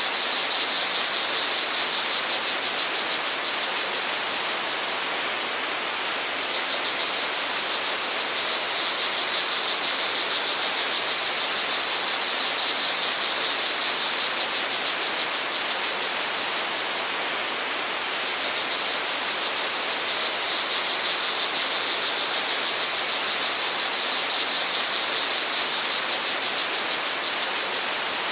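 Steady rush of a waterfall or stream, with crickets chirping in a high, rapid trill that fades in and out in long stretches.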